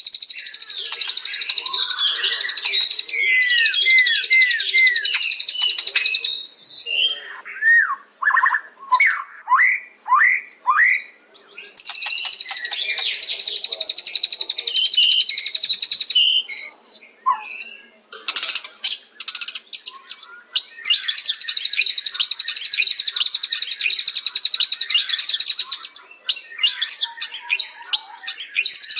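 White-rumped shama (murai batu) singing: long runs of rapid, high chattering alternate with a series of loud, clear, swooping whistled notes about eight to eleven seconds in.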